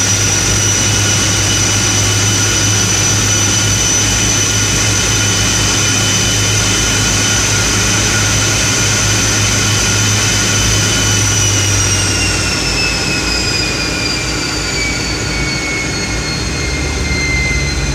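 T-33 jet trainer's turbojet engine running with a steady high whine over a rumble, heard from the rear cockpit; about two-thirds of the way through, the whine starts falling in pitch as the engine spools down.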